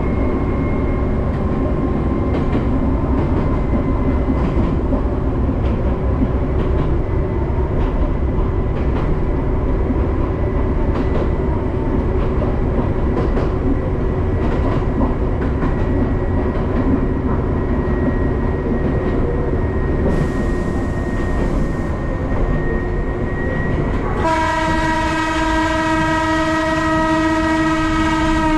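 Chichibu Railway electric train running along the track, heard from the driver's cab: a steady rumble with rail clicks and a faint steady whine, and a brief high hiss about twenty seconds in. Near the end the train's horn sounds one long blast of about four seconds.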